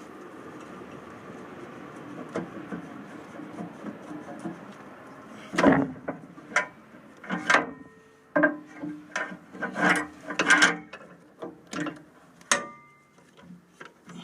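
Hydraulic hose quick-release couplers being unclipped by hand with the engine off: after a few seconds of low handling noise, a run of sharp metallic clicks and knocks, some ringing briefly.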